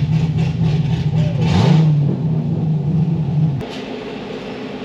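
Straight-piped C6 Corvette Z06's cammed 7.0 L LS7 V8, running with no mufflers on a titanium catback, idles loudly after a dyno pull. It gives one short rev about one and a half seconds in, then is shut off about three and a half seconds in, leaving the steady hum of a cooling fan.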